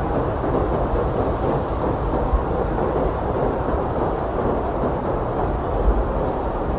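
Blizzard wind blowing hard and steadily, a dense rushing noise with a deep rumble, swelling briefly in low gusts about two and a half seconds and six seconds in.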